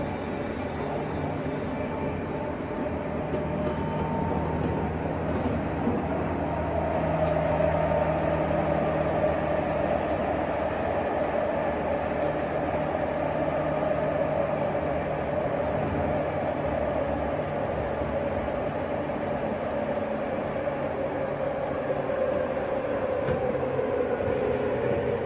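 Running sound inside the motor car of a JR West 201 series electric train: a steady rumble of wheels on rail with a humming tone from the motors and drive. The tone slowly falls in pitch from about a third of the way in as the train slows.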